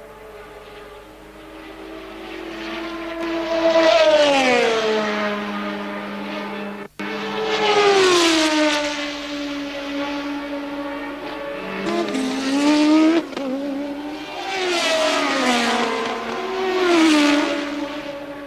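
1983 Formula One cars passing one after another at racing speed, about five in all. Each engine note rises in loudness and then falls in pitch as the car goes by. The sound cuts out very briefly a little before the middle.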